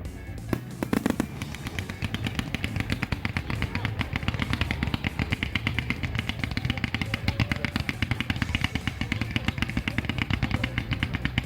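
Fireworks: a burst about a second in, then a dense, fast run of crackling pops from crackle-star shells, over background music.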